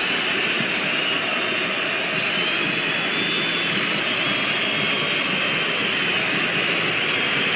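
Steady roar of a large stadium crowd during a football match.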